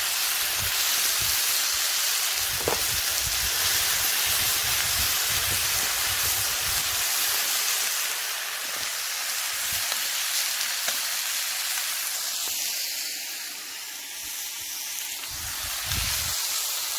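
Food sizzling in a pan over a small wood-burning camp stove: a steady hiss, with low rumbles that come and go.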